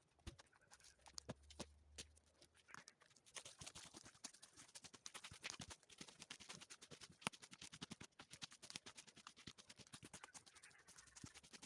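Faint, dense crackling and snapping of dry twigs and branches, growing thicker after about three seconds.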